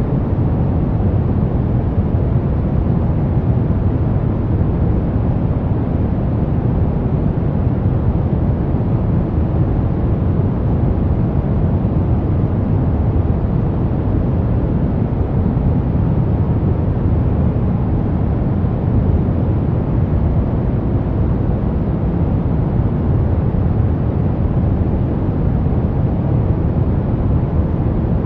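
Steady brown noise: an even, deep rumbling hiss, weighted to the low end, with no changes.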